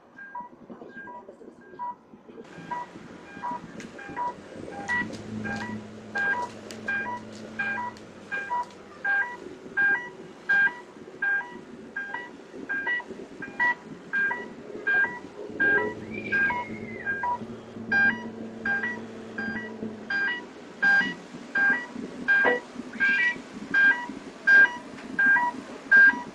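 Electronic alarm beeping on and on in a fast, even pattern that alternates between two pitches, over a steady noisy background.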